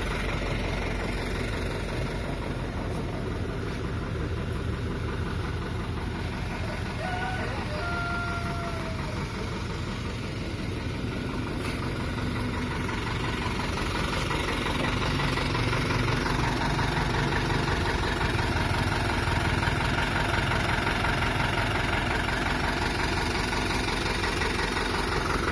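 Dump truck's diesel engine running steadily at idle, getting a little louder about halfway through.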